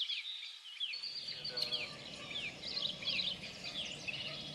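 Several small birds chirping, many short falling calls overlapping one another, with a steady low hum coming in about a second in.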